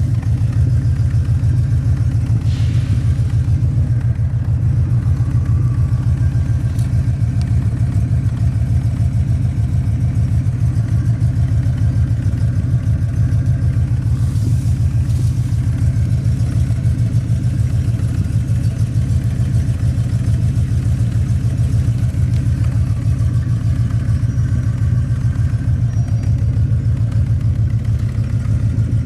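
1967 Cadillac Eldorado's V8, fitted with a widened true dual exhaust, running steadily at idle: a deep, even exhaust burble.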